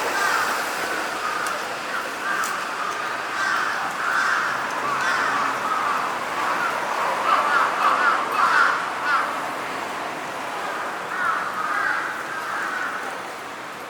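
Crows cawing over and over in a long run of calls, loudest a little past the middle, with a short pause before a few more caws near the end.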